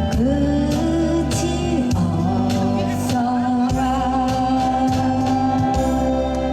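Live cover of a Korean folk ballad: a singer slides up onto a long closing note and holds it over acoustic guitar and accompaniment.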